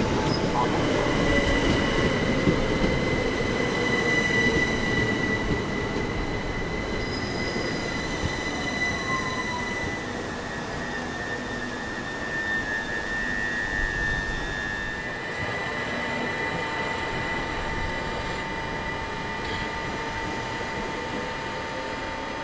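Electric multiple unit pulling into the platform and slowing, its whine falling in pitch over the first few seconds, with a steady high-pitched squeal from the wheels and brakes over the rumble of the train. The sound eases off about halfway through.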